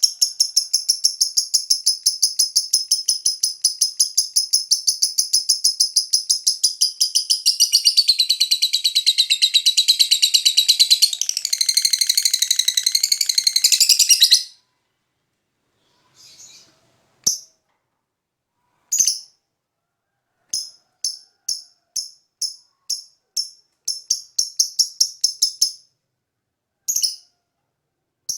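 Lovebird chattering: a fast, continuous run of high, rasping chirps for about fourteen seconds that cuts off abruptly. It is followed by short, separate bursts of the same chatter with silent gaps between them.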